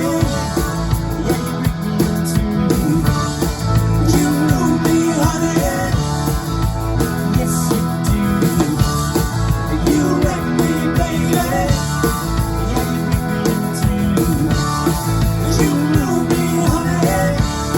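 Rock band playing a song live, loud and continuous without a break.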